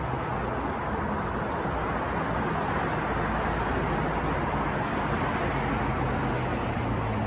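Steady city street ambience: a constant wash of traffic noise and wind with a low engine hum, no single event standing out.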